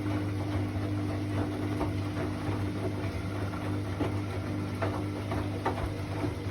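Hoover washing machine running steadily through its quick wash, a constant motor hum with scattered light clicks and rattles.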